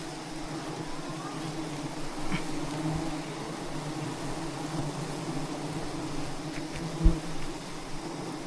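A swarm of wild bees buzzing as a steady hum around a giant hive. A single sharp thump cuts in near the end.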